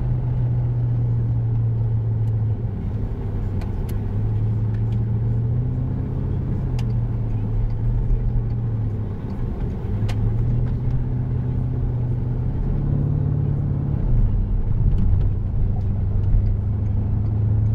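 Porsche Cayenne Turbo's twin-turbo V8 droning through a Tubi aftermarket exhaust, heard from inside the cabin while driving. The low drone holds steady, easing off briefly about nine seconds in and again near fourteen seconds.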